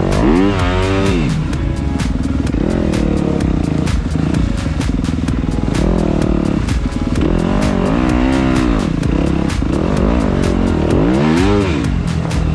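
Dirt bike engine revving up and down repeatedly as the throttle is worked, rising and falling in pitch several times.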